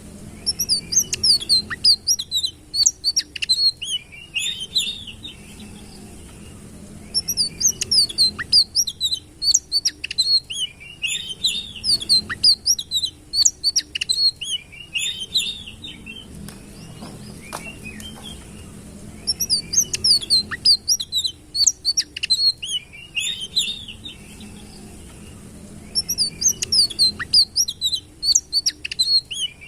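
Grey-headed canary-flycatcher (sitrun) singing: phrases of rapid, high chirps and trills, each a few seconds long, repeating after short pauses over a faint low hum.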